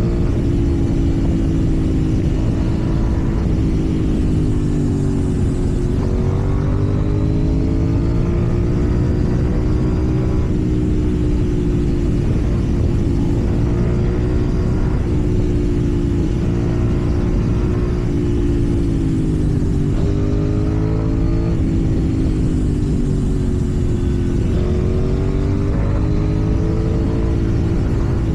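KTM 790 Duke's parallel-twin engine running while riding, its note dipping and climbing again several times as the throttle and gears change, over a low rumble of wind and road noise.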